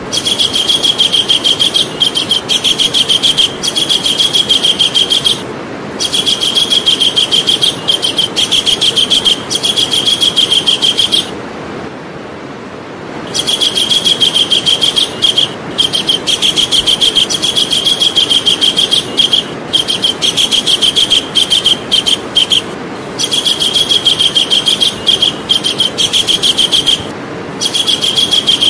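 Javan kingfisher calling in long, rapid rattling trills of fast repeated high notes, broken by short pauses and one longer pause about eleven seconds in.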